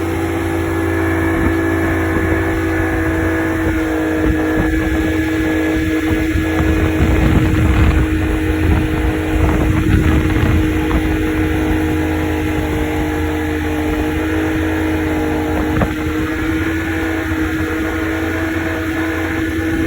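Towing motorboat's engine running at a steady speed with an unchanging pitch, over a low rushing rumble that swells in the middle.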